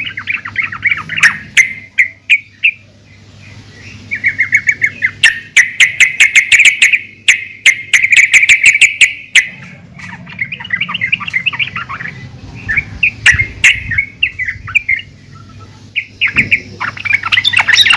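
Yellow-vented bulbul calling: repeated bursts of bubbly chattering, broken by quick runs of sharp clicking notes. These are the calls of a female, used to lure males into singing.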